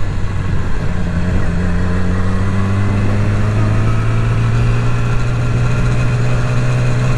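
Yamaha R6's inline-four engine running at steady, low revs, its pitch holding almost level.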